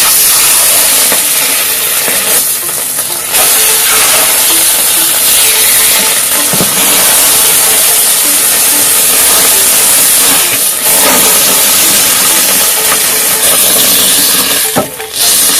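Firework burning with a loud, steady hiss, broken by a few brief dips.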